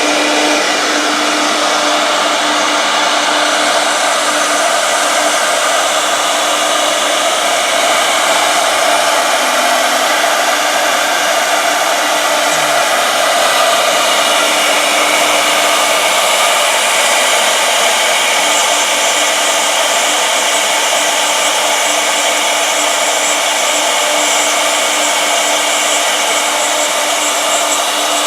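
Two-head CNC router running: the high-speed spindles give a loud, steady whine over a constant hiss, with no break.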